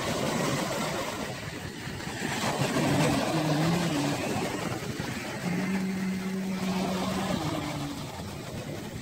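An engine running, its steady hum rising and settling in pitch a few times, over a broad rushing noise.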